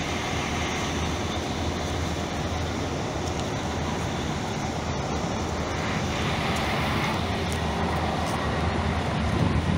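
Steady rumbling noise of a moving train, even throughout with no clear start or stop.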